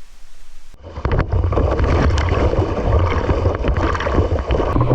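Loud outdoor rush of water and wind buffeting the microphone, with a heavy low rumble and scattered knocks, starting abruptly about a second in.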